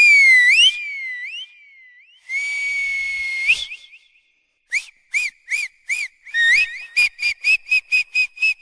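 Human whistling with no other sound. It opens with a swooping whistle that dips and rises, then holds a long steady note that turns up at its end. A run of short chirped notes follows, quickening to about four a second near the end.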